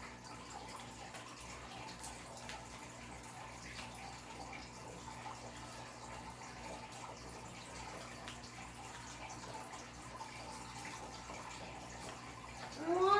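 Quiet room background: a steady hiss and low hum, with faint scattered ticks and rustles. Just before the end, a voice slides upward in pitch.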